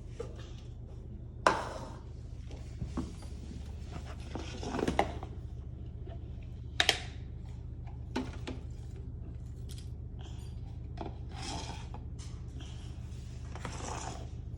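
Small toy trash cans and a toy garbage truck being handled: scattered light clacks and knocks, the loudest about a second and a half in, with some rubbing and rustling, over a steady low hum.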